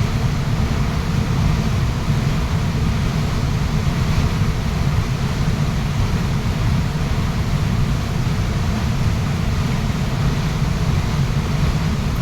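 Waterfall's water rushing down, a steady, deep, unbroken rush.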